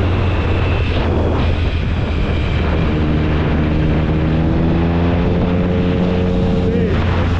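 Triumph Speed Triple 1050's inline three-cylinder engine through an SC-Project exhaust, pulling hard under acceleration over a steady rush of wind noise. About three seconds in the engine note climbs steadily in pitch, then cuts off sharply just before the end.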